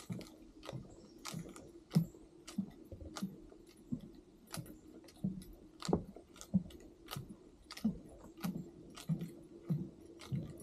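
Footsteps on a wooden boardwalk at an even walking pace, about three steps every two seconds, each a low thud with a sharp click.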